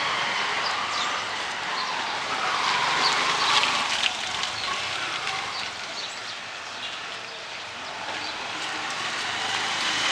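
Steady rain falling on a city street, with faint passing traffic and voices mixed in.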